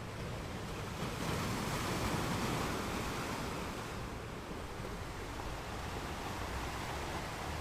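Ocean waves washing onto a shore: one wave swells about a second in and eases off by about four seconds, over a steady low rumble of surf.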